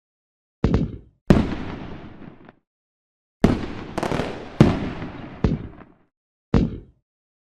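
Firework bangs: about seven sharp explosions, some with a crackling tail that dies away over a second or so. Each bang cuts off abruptly into dead silence, as in an edited sound-effect track, with a cluster of four close together in the middle.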